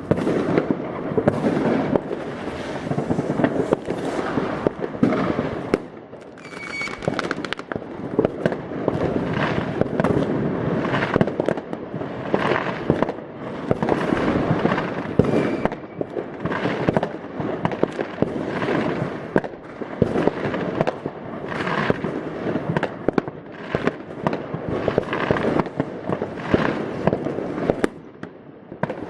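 New Year's Eve fireworks: a dense, continuous barrage of rocket bursts and firecracker bangs with crackling, one brief high whistle about seven seconds in, easing a little near the end.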